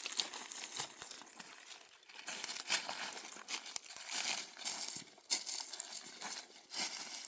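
Irregular rustling and crinkling, coming in uneven bursts.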